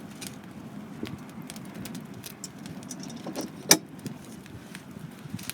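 Wood campfire crackling with scattered sharp pops, one much louder snap a little more than halfway through.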